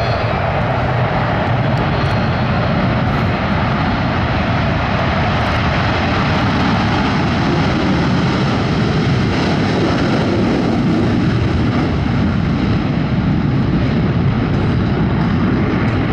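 Blue Angels F/A-18 Hornets of the four-jet diamond on their formation takeoff roll, twin jet engines in afterburner: loud, steady jet noise, heavier in the low end in the second half.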